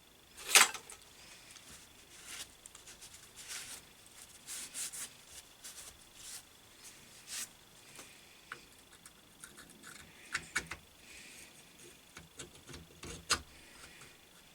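Steel finger of a lathe steady rest being worked by hand in its slot: a sharp metallic click about half a second in, then scattered light scrapes and clinks, with a few more sharp clicks near the end.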